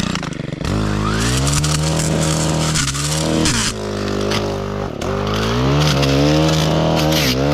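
Stihl Kombi engine with a tri-blade brushcutter attachment revving up about half a second in, then running at high speed while cutting small brush. Its pitch sags briefly three times as the blade takes load.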